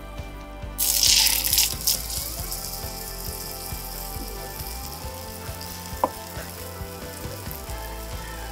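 A piece of raw chicken goes into hot oil in a small wok. The sizzle starts loud about a second in, then settles into a steady sizzle.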